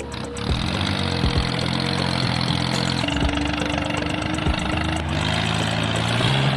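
A vehicle engine running steadily at idle, its tone shifting slightly about three seconds in and again about five seconds in.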